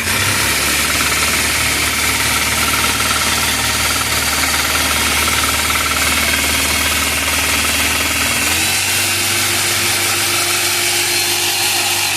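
Home-built power hammer/metal press running, a loud, steady mechanical clatter. About eight and a half seconds in, its low hum steps up in pitch.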